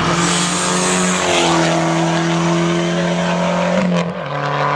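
Hill climb race car's engine running loud at high revs, its pitch held steady and stepping down twice, about a second and a half in and again near the end.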